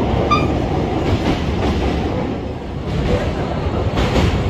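Baekdudaegan Gorge Train (V-train) running along the track: a steady rumble of wheels on rails, with a brief high-pitched tone about a third of a second in.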